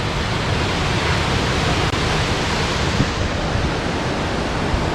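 Yukankoski (Belye Mosty) waterfall rushing close by: a steady, dense roar of falling water.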